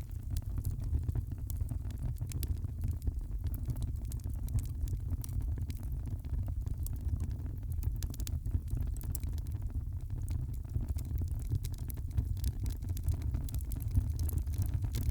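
Fire crackling in a fireplace: a steady low rumble of the flames with frequent small, sharp pops and crackles scattered throughout.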